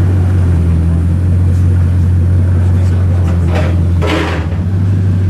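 A car engine running with a steady low drone. About three and a half and four seconds in, two short hissing sounds cut over it.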